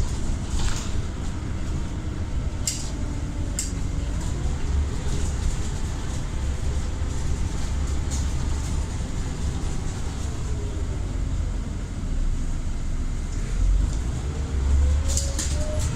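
Scania Omnicity single-deck bus running, its deep engine rumble overlaid by the whine of its ZF automatic gearbox, which slides down in pitch and then rises again near the end. A few short rattles are heard, about half a second in, around three seconds in, and near the end.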